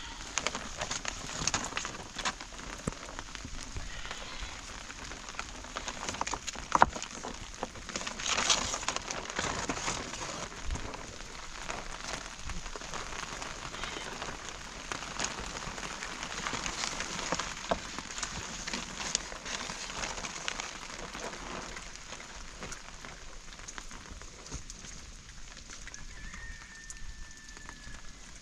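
Steady rain falling, its drops pattering and ticking on surfaces, with a few sharper knocks along the way. Near the end there is a brief thin high tone.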